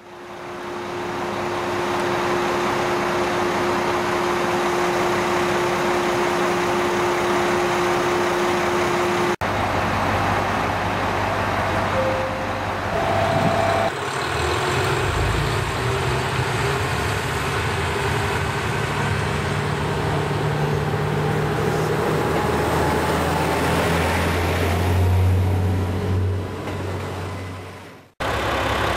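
JR Kyushu KiHa 220 diesel railcar running, with a steady mechanical din and a low engine hum that swells about three-quarters of the way through. The sound breaks off abruptly twice, about nine seconds in and near the end.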